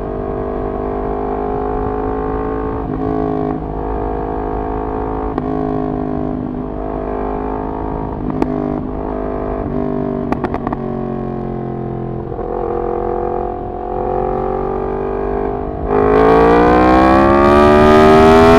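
Yamaha MT-10's crossplane inline-four through a de-catted full exhaust system, running at a steady part-throttle cruise with the revs rising and falling a little. About 16 seconds in the throttle opens hard: the exhaust gets much louder and the revs climb.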